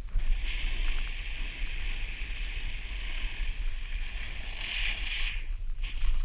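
A steady hiss of sliding snow that starts about half a second in, swells near the end and stops abruptly, over a low rumble of wind on the microphone.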